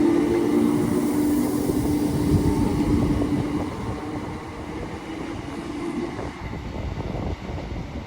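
A Class 319 electric multiple unit pulling away, its steady hum and rumble fading as it moves off. The tone ends a little over halfway through.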